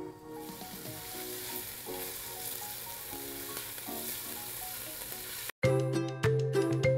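Chopped onions frying in olive oil in a Dutch oven, a steady sizzle under soft background music. About five and a half seconds in, the sizzle cuts off and a louder music jingle starts.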